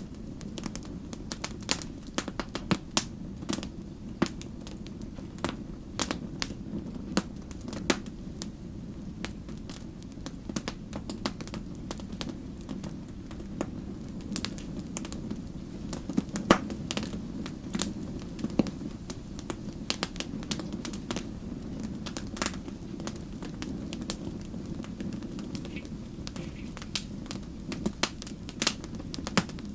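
Wood fire burning with frequent irregular sharp crackles and pops over a steady low rumble of flame.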